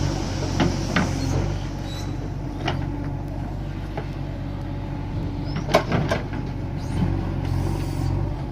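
Tractor's diesel engine running steadily, with scattered sharp clanks and knocks, the loudest a little before six seconds in.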